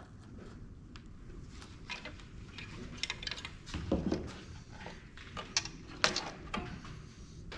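Irregular clicks, taps and light clatter of tools and metal and plastic parts being handled while a thermal printer is taken apart, loudest about four and six seconds in.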